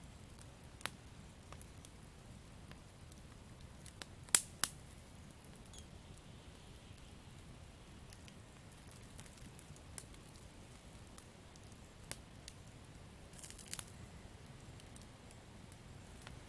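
Campfire crackling: scattered sharp pops and snaps of burning wood over a faint low hiss, with two loud pops about four seconds in and a short run of crackles later on.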